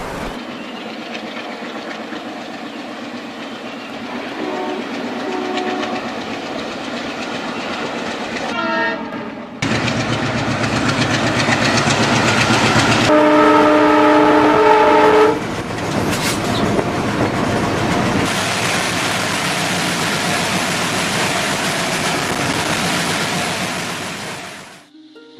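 A train running on its track, with a steady rumble and wheel clatter that cuts abruptly between louder and quieter stretches. A locomotive horn sounds briefly about five seconds in, again with a falling pitch near nine seconds, and then as a loud multi-tone chord for about two seconds in the middle, the loudest sound of the stretch.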